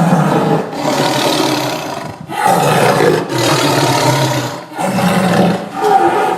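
Several long, rasping lion-like roars from stock and movie creature sound effects, one after another with short breaks between them.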